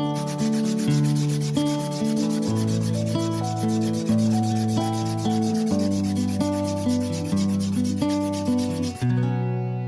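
Sandpaper rubbing on a vintage machinist hammer in quick, even strokes, over acoustic guitar background music. The sanding stops abruptly near the end.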